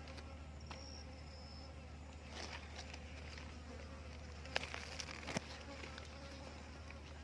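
Insects buzzing steadily in the forest, with a brief high tone about a second in and two sharp clicks less than a second apart a little past the middle.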